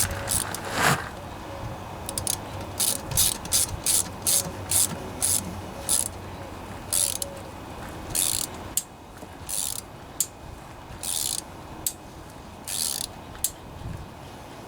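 Hand tap being turned to cut threads into a motor-mount hole, making a series of short metallic clicks and rasps in irregular strokes about one to two a second, growing sparser about halfway through.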